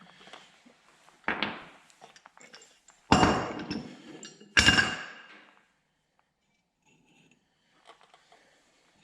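Three heavy hammer blows on steel, knocking out an old ball joint held in a ball joint press, each blow ringing briefly; the second and third are the loudest.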